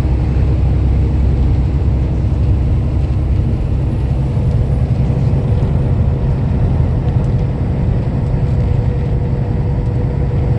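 Steady low rumble of a semi-truck's engine and road noise heard inside the cab while driving, with a faint steady hum over it.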